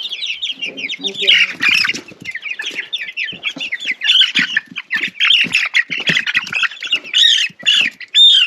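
Young chickens peeping loudly and rapidly in alarm as they are caught and handled, many short high chirps overlapping without a break.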